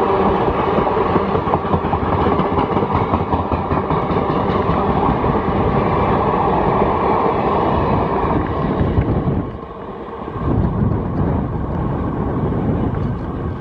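Indian Railways passenger coaches rolling past at speed, a steady rumble and clatter of wheels on rail. About nine and a half seconds in, the last coach clears and the sound drops, leaving a low rumble.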